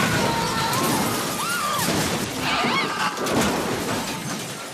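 Car crash: a smash with glass shattering and debris clattering, with a few short high squeals, fading out near the end.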